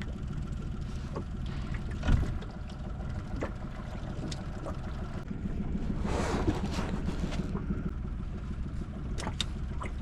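Small fishing skiff on the water: a steady low rumble with scattered knocks, one louder knock about two seconds in, and a brief rush of noise a little past the middle.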